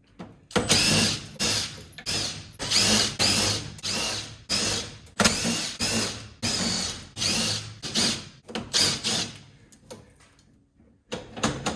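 Power drill-driver run in about a dozen short bursts, its motor whine rising and falling with each trigger pull, as it works at the tamper-proof security hex screws.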